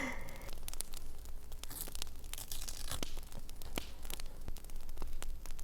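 Paper and sticker sheets rustling and tearing, over scattered sharp crackles of a campfire.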